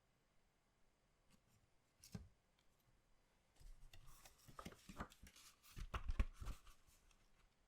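Hands handling collectible trading cards and their packaging, faint: a single click about two seconds in, then about three seconds of rustling with several light taps.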